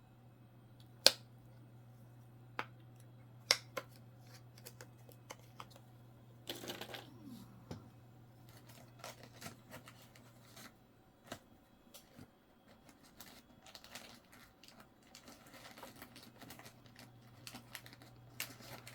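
Coins and cardboard coin flips being handled on a table: scattered light clicks and taps, a brief rustle about six and a half seconds in, over a low steady hum.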